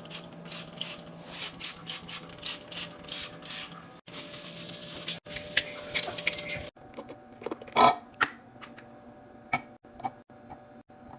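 Irregular clicks, taps and knocks of containers and food items being handled and set down, in short cut-together snippets, with one louder knock about eight seconds in.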